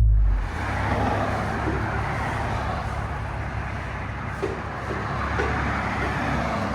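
Toyota Tundra 3.4 L twin-turbo V6 with a Carven R-Series muffler, heard from inside the cab. As it begins, the engine's rising rev note drops away, leaving a steady low exhaust rumble under an even hiss of road noise.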